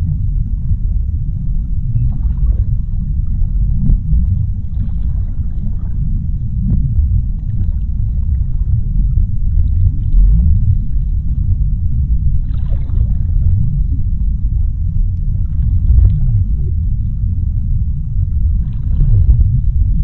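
Underwater ocean ambience: a deep, steady rumble with faint brief swishes rising out of it every few seconds.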